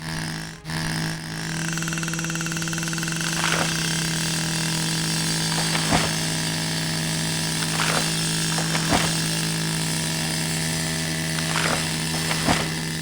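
Chainsaw running steadily at a constant pitch while cutting, with a short break about half a second in and several sharp cracks every couple of seconds.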